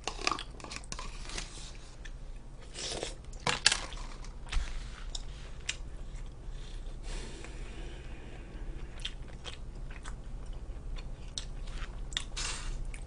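A person chewing food close to the microphone, with scattered soft clicks and crunches at irregular moments.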